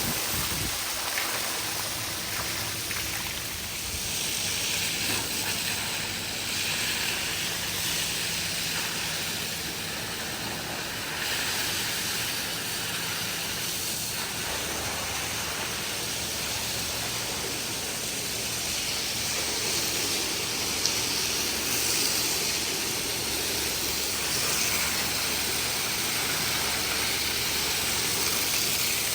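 Pressure washer spraying water in a steady hiss over a low, even motor hum, the spray swelling and easing a little at times.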